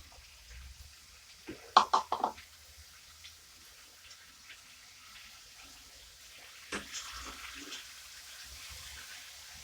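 Kitchen utensils knocking against a cooking pot while ingredients are added: a quick run of sharp clinks about two seconds in, then a single knock with some softer clatter near seven seconds, over a faint steady hiss.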